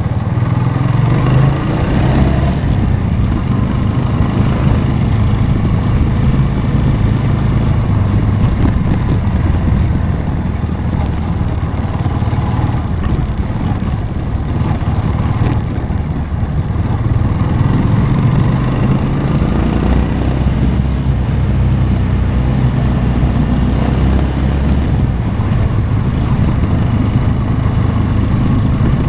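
Motorcycle engine running continuously while riding, its revs rising and falling and dropping lower for a few seconds near the middle, with road and wind noise.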